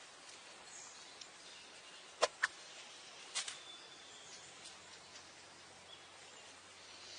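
Faint steady background hiss, broken by two sharp clicks a little over two seconds in and a third about a second later.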